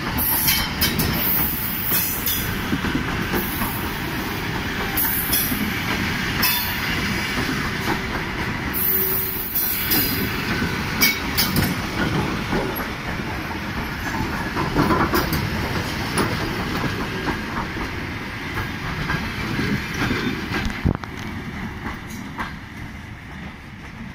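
Electric commuter train passing close by: wheels clattering over the rail joints, with repeated short bursts of high squealing. The noise drops away abruptly about 21 seconds in, once the last car has gone by.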